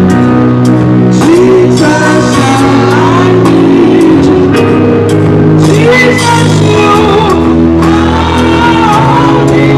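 Church choir music: singing over sustained instrumental chords and bass, loud and continuous.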